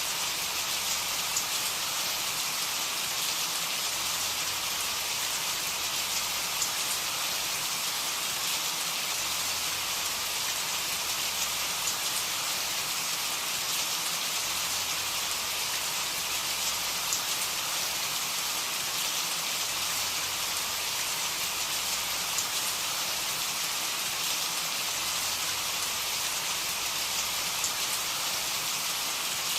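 Steady rain falling: an even hiss with scattered sharp ticks of individual drops, unchanging throughout.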